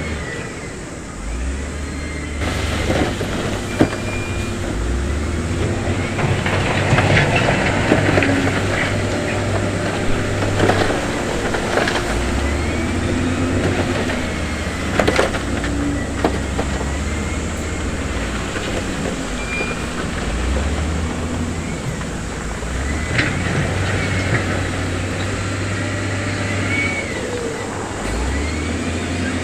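Heavy diesel construction machinery running, with its engine note stepping up and down as it works under load, and a few sharp knocks of stone or steel.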